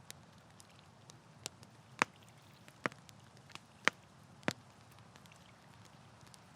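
Campfire crackling: burning wood giving sharp pops and snaps, a handful spread over the first four and a half seconds, the loudest about two and four seconds in, over a faint low steady hiss.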